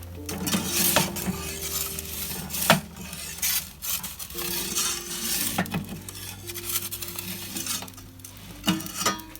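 Scraping and rustling with several sharp metallic clinks, like tools being handled, over faint background music.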